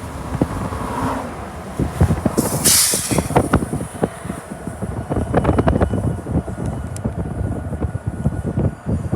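A train passing close by, its wheels clattering and knocking over the rail joints with a constant rumble underneath, and a brief hiss about two and a half seconds in.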